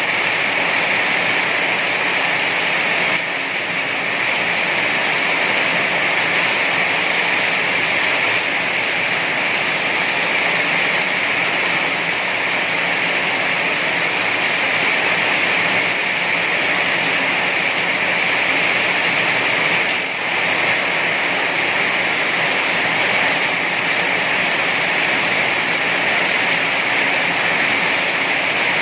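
Heavy rain falling steadily as a dense, even hiss, with no separate drops standing out.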